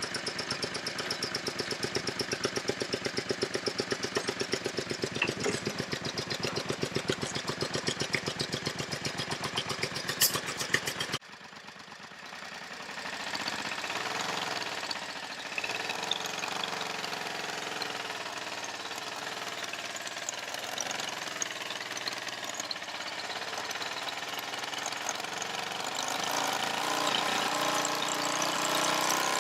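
Motorcycle engine idling with a steady rapid beat. After a sudden cut about eleven seconds in, the engine runs under way, its pitch rising and falling and getting louder near the end.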